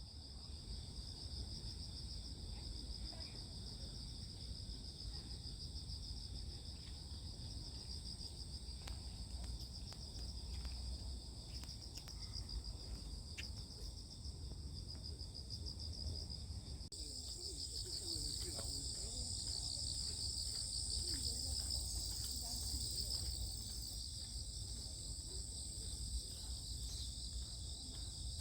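A chorus of crickets and other grass insects: a steady, high, pulsing trill. A second, higher trill grows louder a little past halfway through.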